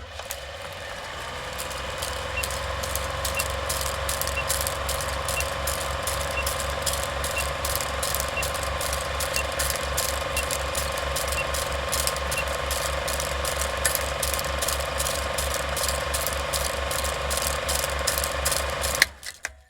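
Steady mechanical clicking at an even rhythm of several clicks a second, over a steady hum and a low pulsing; it cuts off suddenly near the end.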